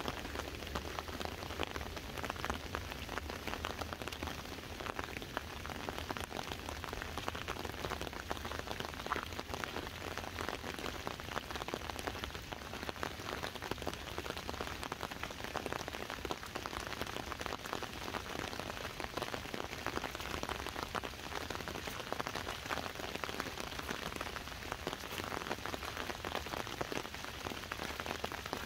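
Steady rain falling on an umbrella held overhead: a dense, even patter of many small drops.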